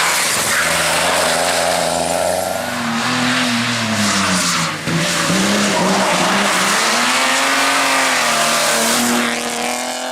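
Rally car engine revving hard while driven on a test course, its pitch climbing and falling repeatedly through gear changes, with a short lift-off about halfway through. Tyre noise from the car sliding runs under the engine.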